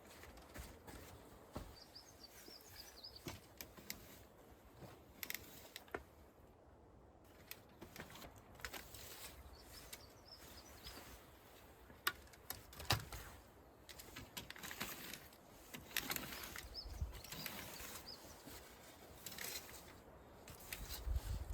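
Quiet outdoor ambience with faint bird chirps, broken by scattered small clicks, knocks and rustles of something being handled close by.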